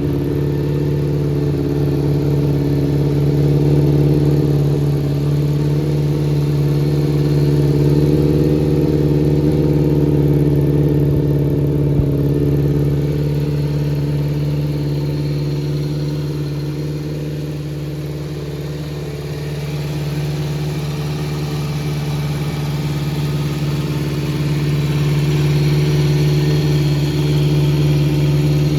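Kawasaki Z400J's air-cooled 400 cc inline-four idling through an aftermarket four-into-one exhaust, holding a steady beat but sagging a little about two-thirds of the way through before picking up again. The idle is unstable, as the seller notes: the carburettors need adjusting.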